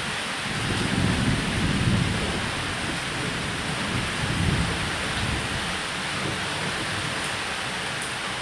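Steady rain falling on a roof, with rolling thunder rumbling low that swells about a second in and again around four seconds in, then fades.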